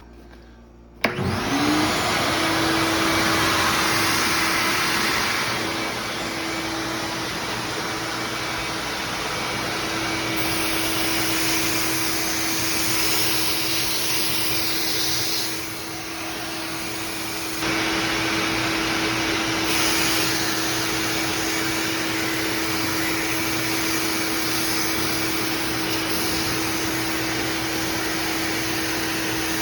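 Shop vac switched on about a second in, its motor spinning up with a rising whine and then running steadily, with a brief dip and then a step up in loudness about two-thirds of the way through.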